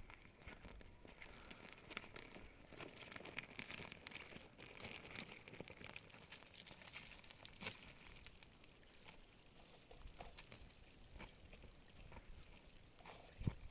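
Near silence with faint scattered clicks and rustles, and one slightly louder click near the end.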